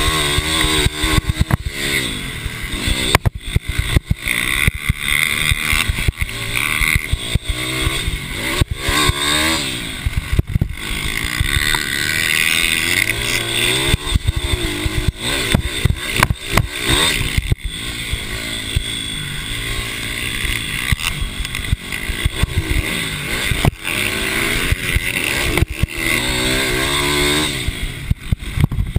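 Racing mini bike engines revving hard, their pitch climbing and dropping again and again through gear changes and corners, with frequent sharp cracks and knocks over the engine noise.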